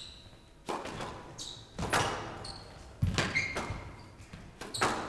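Squash rally: sharp hits of the ball off racket and court walls about once a second, ringing in the hall, with short high squeaks of court shoes on the wooden floor.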